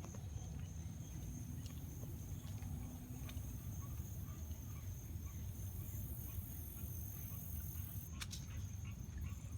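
Outdoor trail ambience: a steady high insect drone over a low wind rumble on the microphone, with a few short chirps about eight seconds in.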